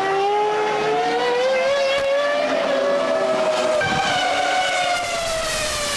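Formula One car engines at high revs: one engine note rising in pitch, then a second car's note falling in pitch as it passes, about four seconds in.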